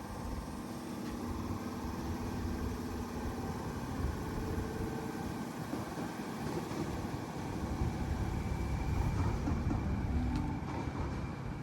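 Sydney Trains Tangara electric train pulling away from the platform, a steady low rumble of wheels and motors that swells a little around the middle.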